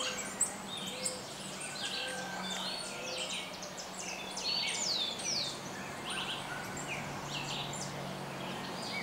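Many birds chirping and calling together, with quick falling whistled notes, over a faint steady low hum.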